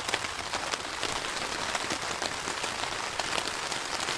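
Heavy rain falling steadily, with many individual drops striking close by in a dense patter.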